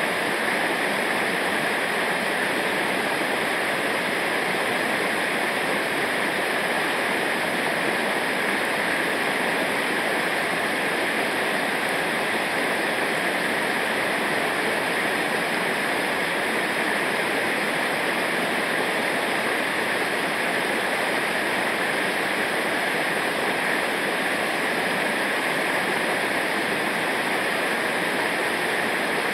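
Rushing river water from rapids or a waterfall, a loud, steady sound that does not change.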